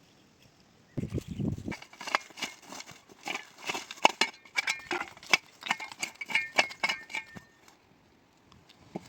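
A rapid, irregular series of sharp knocks and clicks, some with a brief ringing clink, lasting about six seconds and then stopping.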